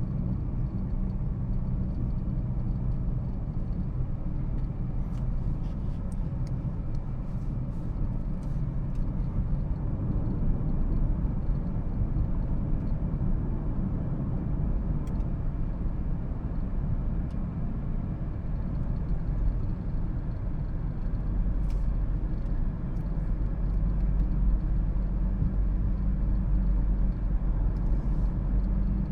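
2013 Toyota Prius driving, a steady low rumble of road and drivetrain noise with a few faint clicks.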